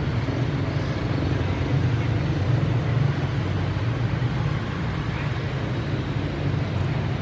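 A steady low drone of an engine running.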